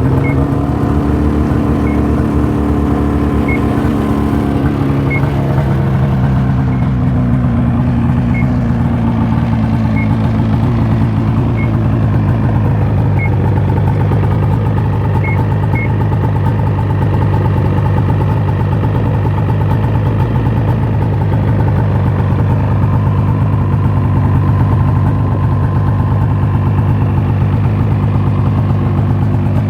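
Rotax 800 HO two-stroke twin of a 2007 Ski-Doo MXZ Blizzard snowmobile idling with the choke on, just after starting. Its pitch drops a little over the first several seconds, then it holds a steady idle.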